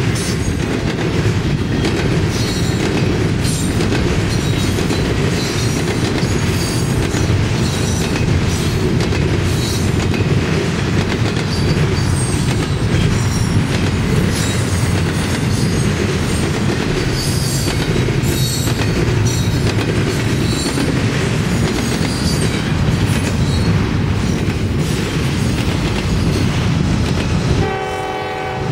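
Double-stack intermodal freight train rolling past, a steady heavy rumble of wheels with clatter over the rails and scattered short high squeals. Near the end the level drops briefly and a diesel locomotive's horn begins to sound.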